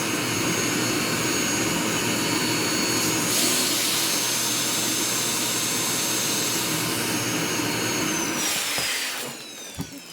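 Household vacuum cleaner running steadily with a high motor whine, then switched off near the end, its motor whine falling in pitch as it spins down.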